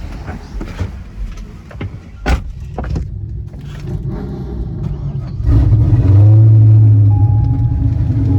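Car engine accelerating: a low rumble for the first few seconds, then about five and a half seconds in the engine note jumps much louder and holds steady under hard throttle.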